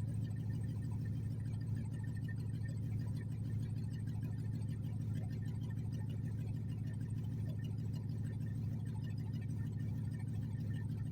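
Mercedes S55 AMG's supercharged M113K V8 running at a steady idle through open headers with no catalytic converters, a loud, even exhaust note with no revving.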